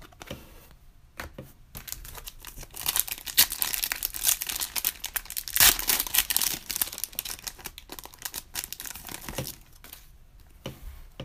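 A Panini Prizm retail card pack's wrapper being torn open and crinkled. The crackling starts about a second in, is loudest in the middle and dies away near the end.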